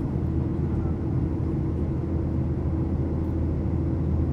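Steady cabin drone of a Boeing 737-800 in flight: low engine and airflow rumble with a constant hum running under it.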